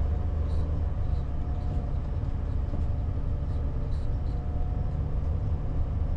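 A steady low rumble of an RV's engine and road noise, heard from inside the cab while driving.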